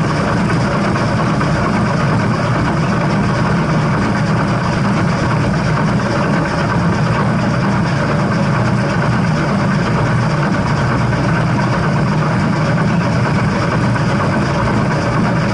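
Steady, loud rumble and rattle of a steam train running, without a distinct beat.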